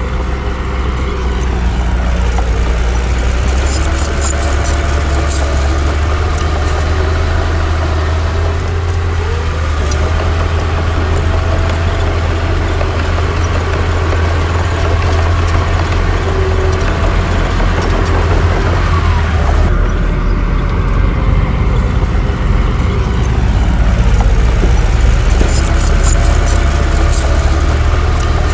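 Heavy diesel engine of earthmoving machinery running steadily, with a pitch that drifts up and down as it works. Sharp metallic clicks and clanks come in about four seconds in and again near the end.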